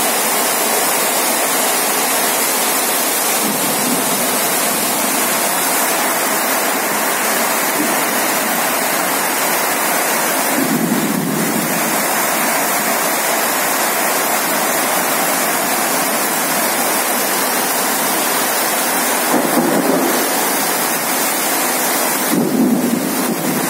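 Heavy rain pouring down in a dense, steady hiss, with a few brief louder surges.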